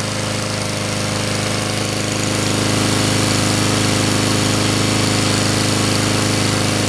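Honda GCV160 single-cylinder engine on a Husqvarna HU700F walk-behind lawn mower running steadily, a little louder from about two and a half seconds in. It has come back to life after sitting unused since the fall.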